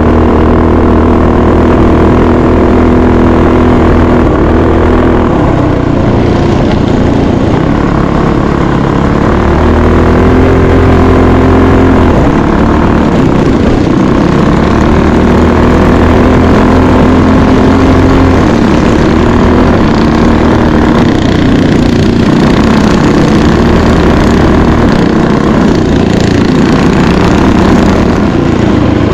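Mini bike engine running loud and close, its pitch stepping up and down with the throttle every few seconds.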